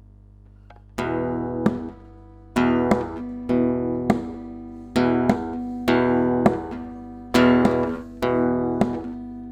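Acoustic guitar strummed in chords: an instrumental break with no singing. After a faint ringing, the strumming comes in about a second in and goes on in a steady rhythm of strokes, each chord ringing out.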